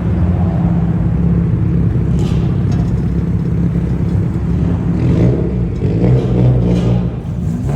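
Car engine and exhaust running loudly, with revs swelling for a moment a little past halfway.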